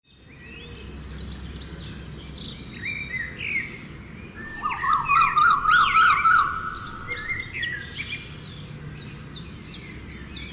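Small birds chirping and twittering, with a louder, rapid warbling trill about halfway through.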